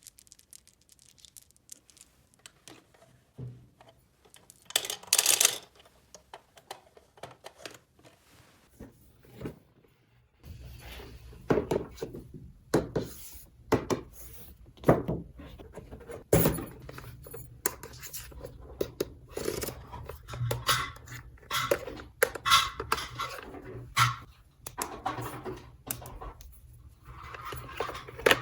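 Small plastic toy parts being handled: scattered clicks and knocks, a short rustle about five seconds in, and from about ten seconds on a low steady hum under frequent knocks.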